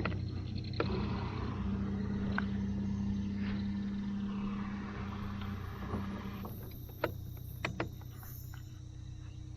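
A boat motor running steadily with a low hum. A higher, steady hum comes in about a second and a half in and cuts off about two-thirds of the way through. A few sharp knocks follow near the end.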